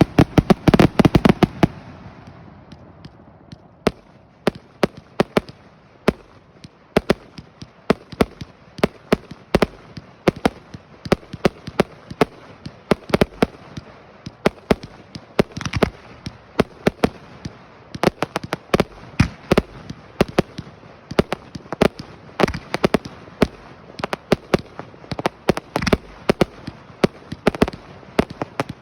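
Fireworks going off: a rapid volley of bangs in the first two seconds, then irregular single bangs and pops through the rest.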